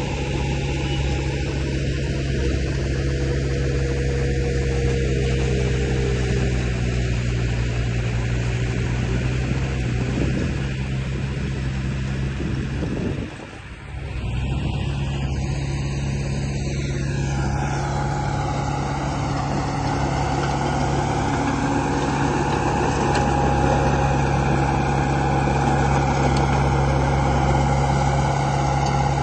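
Radio-control model construction vehicle running: a steady engine-like drone. It drops away briefly about 13 seconds in, then comes back with a slightly changed tone.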